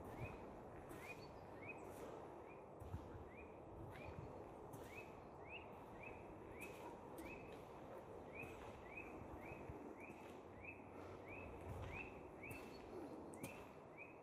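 Footsteps walking along a forest trail, faint, with a short high chirp repeating evenly about three times a second and occasional sharp clicks.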